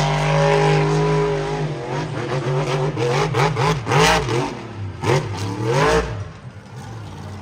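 Monster truck's supercharged V8 held at high revs, then revved up and down again and again with a few thumps, before falling back to lower, quieter running about six seconds in.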